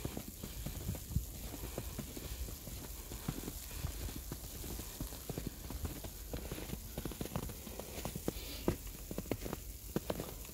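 Footsteps crunching through snow, a run of short irregular crunches over a low steady rumble.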